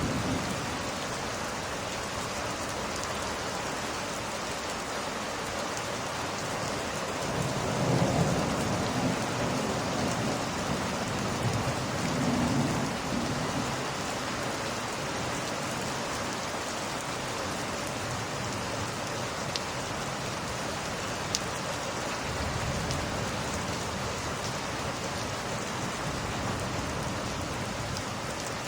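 Steady rain with a roll of thunder rumbling, loudest from about seven to fourteen seconds in. A couple of sharp pops from the fire come later.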